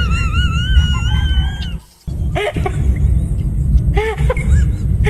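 A long, high-pitched wavering squeal-like voice lasting nearly two seconds, then a brief cut to silence, followed by bursts of laughter over a steady low rumble.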